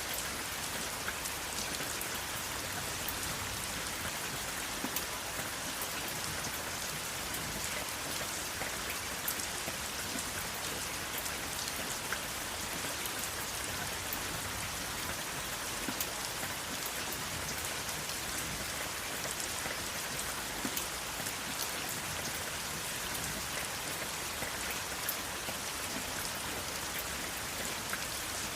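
Steady rain falling, a dense even hiss with many sharp individual drops pattering on a surface throughout, without thunder.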